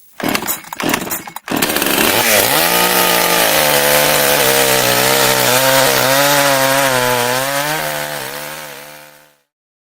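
Chainsaw starting with a few sputtering bursts, then running at high revs with a slightly wavering pitch, dying away near the end.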